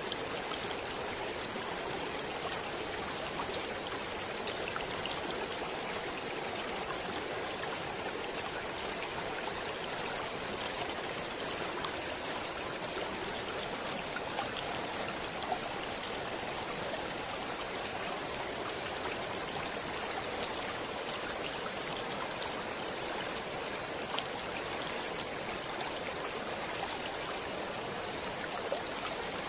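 Running water of a stream: a steady, even rush with small scattered splashes and drips.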